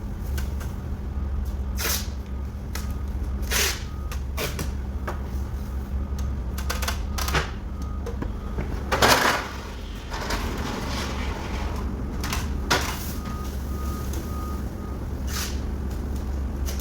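Masking tape and plastic sheeting being handled: irregular short clicks, tape pulls and rustles, with a louder crinkle about nine seconds in, over a steady low hum.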